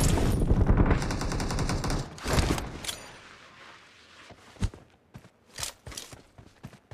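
Video-game automatic gunfire: a rapid sustained burst for about two seconds, a second short burst, then scattered fainter single shots.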